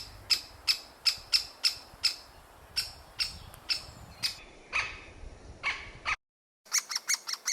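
Great spotted woodpecker calling: a regular series of short, sharp, high calls, about three a second, with a couple of lower, harsher calls mixed in. Near the end the sound breaks off for a moment, then the calls resume faster.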